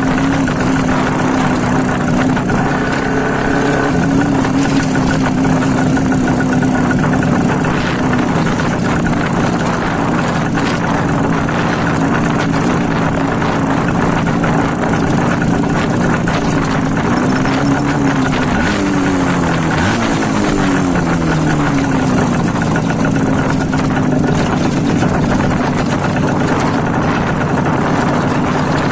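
IZH Jupiter-5 two-stroke twin motorcycle engine running with its exhaust baffles removed, a loud open-pipe note. The pitch rises and then drops about two-thirds of the way through, then settles back to a steady note.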